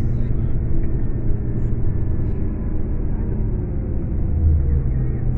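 Scania K410 coach running, a steady low engine drone with road and mechanical noise.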